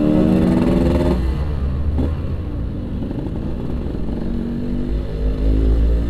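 Yamaha RX-King two-stroke single-cylinder engine, on its stock exhaust, under way on the road. Its revs climb for about a second and then drop away, and it runs on steadily.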